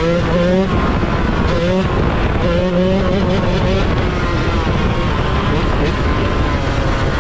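Yamaha YZ125 two-stroke engine running under way, its pitch rising and falling with the throttle several times, over a steady low rumble.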